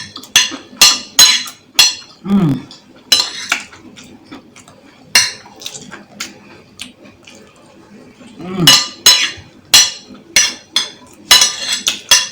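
Close-up eating sounds: a spoon clinking and scraping against a bowl in sharp, irregular clicks, with two short low falling vocal sounds, one about two seconds in and one past eight seconds.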